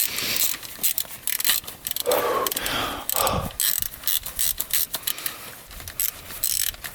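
Hand socket ratchet clicking in quick, irregular runs as bolts on an engine cover are turned loose, with a couple of short scraping sounds around the middle.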